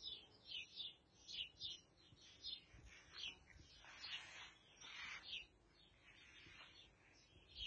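Faint chirping of small birds, short high calls coming several times a second.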